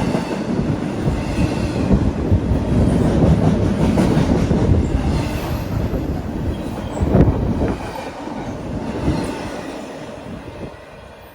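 Freight train cars rolling past at track level, steel wheels rumbling over the rails with occasional sharp clacks. The sound fades steadily over the last few seconds as the end of the train goes by.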